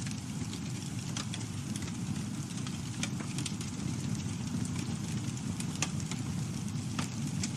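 Campfire burning with a steady low roar of flames and irregular sharp crackles and pops of burning wood, a few louder snaps among them.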